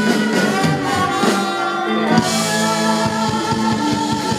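A band playing a soul ballad, with sung vocals over held chords and a steady drum beat.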